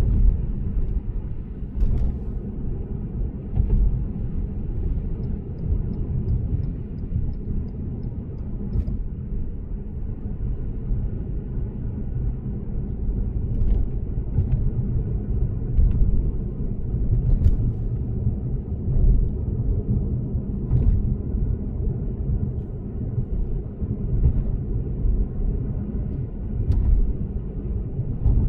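Steady low road and tyre rumble of a Lexus GS450h hybrid saloon cruising at expressway speed, with a few sharp knocks now and then and a brief run of faint even ticks.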